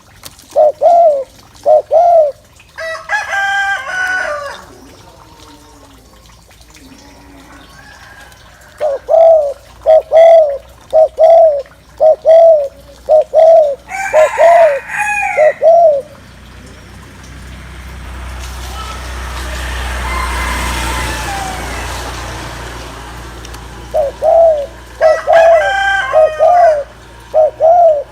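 Spotted dove giving its bowing 'gù' coo: runs of short, evenly spaced low coos at about two a second, pausing and starting again. A rooster crows twice, and a passing engine swells and fades in the middle.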